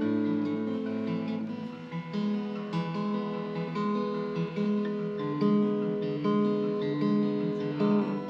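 Acoustic guitar playing, plucked notes and chords changing about once a second.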